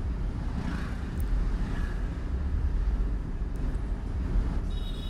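Steady low rumble of a motorcycle ride through city traffic, with no clear single event.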